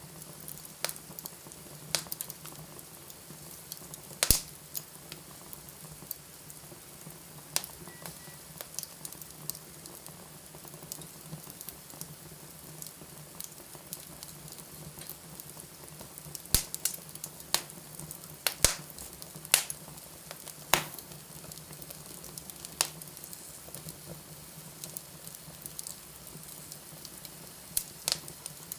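Wood fire in a fireplace crackling, with irregular sharp pops over a steady faint hiss and low hum. The loudest pop comes about four seconds in, and a cluster of pops falls a little past the middle.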